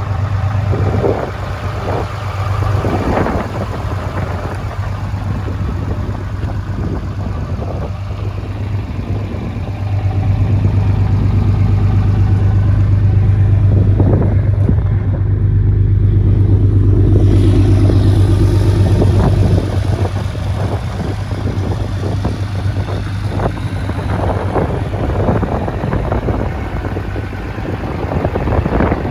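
2014 Ram 2500 pickup truck engine running at idle. About a third of the way in it rises to a louder, steady higher speed for roughly ten seconds, then drops back to idle. Scattered short knocks sound over it.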